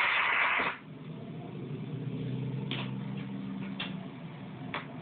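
Fire dispatch radio: a hiss of static that cuts off suddenly just under a second in, then a low hum with a few faint clicks.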